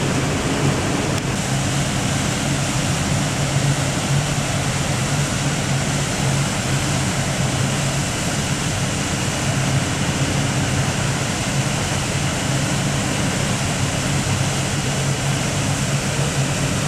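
Large waterfall's steady rushing water noise, even and unbroken, with a low rumble beneath.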